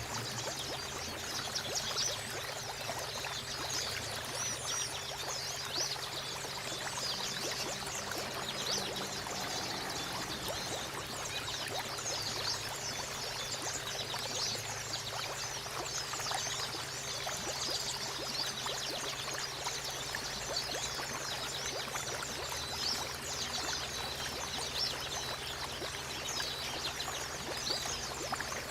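Water trickling and pouring steadily, with a dense stream of short high-pitched ticks and chirps running through it.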